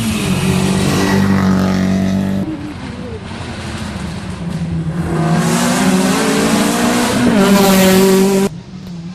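Rally car engines at full throttle: one note falls in pitch as a car passes and breaks off about two and a half seconds in, then another engine climbs steadily in pitch under hard acceleration before breaking off suddenly near the end.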